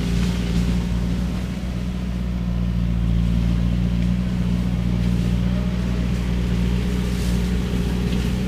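Skid steer engine running steadily with its shredder head working through cane: a constant low drone with faint, brief crackles from the cutting.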